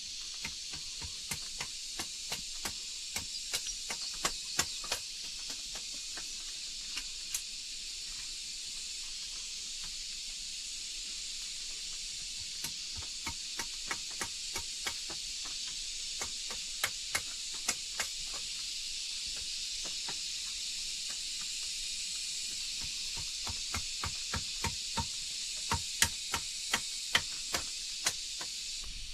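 Runs of sharp knocks, about two to three a second, over a steady high hiss. The knocks are loudest near the end.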